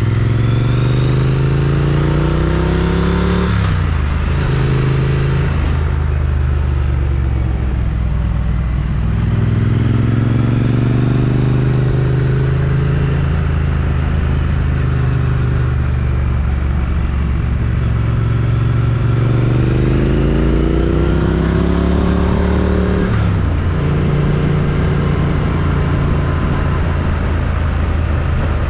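Triumph Street Twin's 900 cc parallel-twin engine through its stock exhaust, heard from the rider's chin-mounted camera while riding. The engine note climbs as it pulls, falls abruptly about four seconds in and again about two-thirds of the way through, with steadier cruising stretches in between, over steady wind and road noise.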